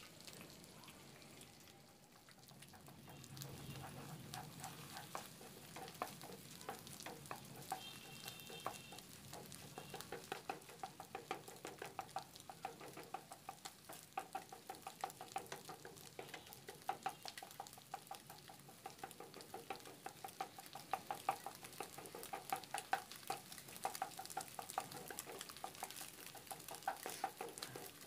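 Food sizzling in a frying pan while a spatula stirs and scrapes it, with rapid clicking strokes of metal against the pan that grow busier after about ten seconds.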